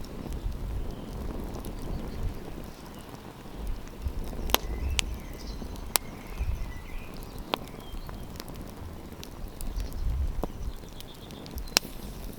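Wood campfire burning, with about half a dozen sharp crackling pops of the burning wood scattered through, over a low, uneven rumble.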